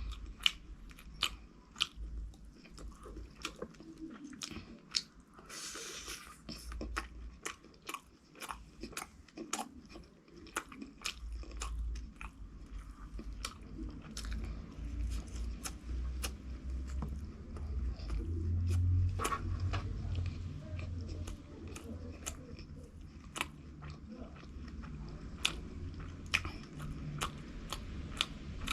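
Close-miked crunching and chewing of fried food, with a steady stream of sharp crackly crunches. A denser burst of crunching comes about six seconds in.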